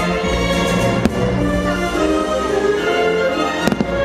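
Orchestral fireworks-show music playing steadily, with aerial firework shells bursting over it: one sharp bang about a second in and a quick double bang near the end.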